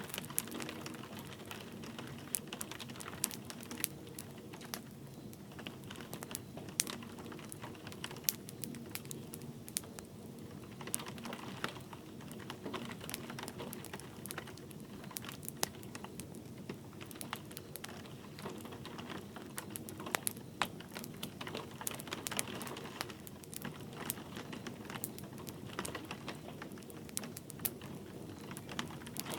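Wood fire crackling in a fireplace, with irregular sharp pops and snaps over a steady wash of light rain.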